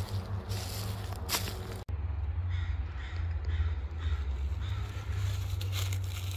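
A low wind rumble on the microphone. After a sudden cut about two seconds in, a bird gives a run of short calls, about two a second.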